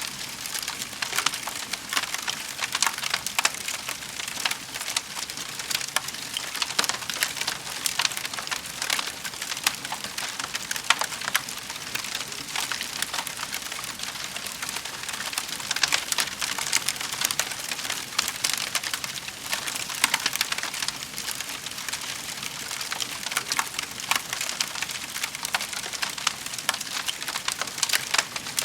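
Wood fire in a fireplace crackling: a dense, continuous run of small pops and snaps over a steady hiss.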